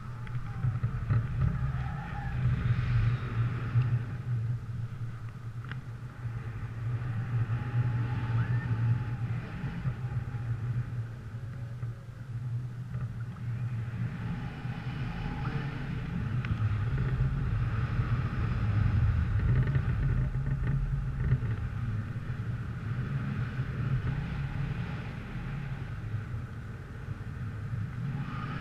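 Low rumble of a vehicle on the move, swelling and easing in loudness several times, with a lighter hiss above it.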